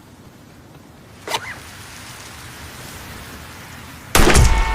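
A zipper is pulled about a second in, then a steady hissing trickle like someone urinating. Near the end comes a loud sharp bang like a gunshot, followed by a car horn sounding steadily.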